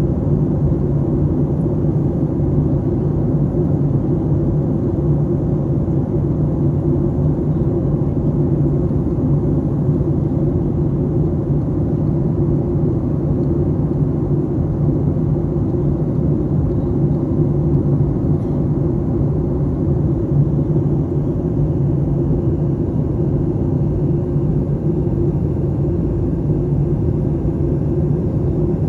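Steady cabin rumble of a jet airliner in flight, a constant low drone of engines and airflow with no changes.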